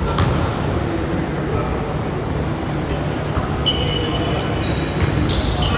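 Gym ambience during a basketball game: a steady low hum with voices murmuring, and sneakers squeaking on the court several times about two-thirds of the way in.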